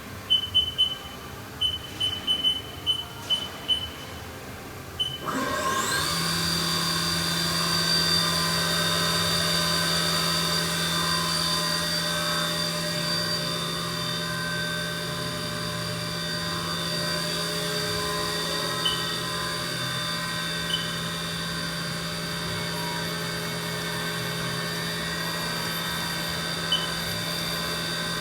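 Haas VF-8D CNC mill's control keypad beeping on a quick series of key presses, then its 10,000 RPM gear-head spindle spinning up with a rising whine about five seconds in and running at a steady whine. A few more single key beeps sound later.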